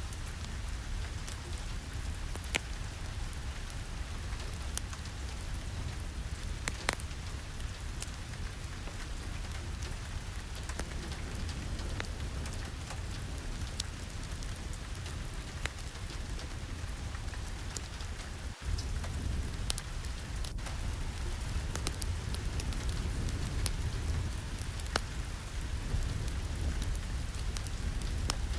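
Steady rain falling, with scattered sharp drop-like clicks over a low, even rumble. There is a brief dip about two-thirds of the way through, after which it runs slightly louder.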